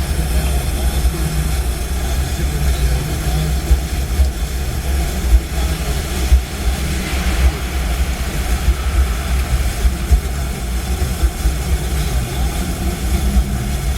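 Storm wind buffeting the microphone: a heavy, fluttering low rumble over a steady rushing roar.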